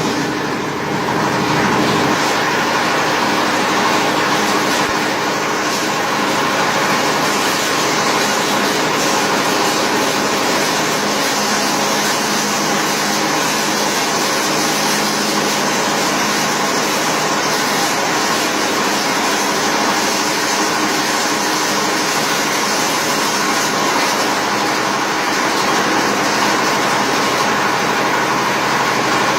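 Grass and compost chopper machine running steadily, a loud even mechanical drone with a broad hiss.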